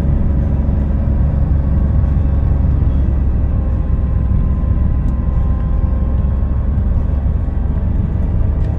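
In-cabin sound of a Daihatsu Rocky's 1.2-litre three-cylinder engine running steadily under load with tyre and road rumble, pulling uphill at a constant speed.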